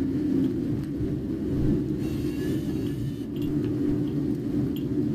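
Car on the move, heard from inside the cabin: a steady low rumble of engine and road noise with a faint steady hum.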